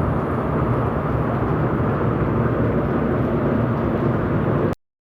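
Motor scooter running at riding speed, a steady engine drone under wind rushing over the microphone, cutting off suddenly near the end.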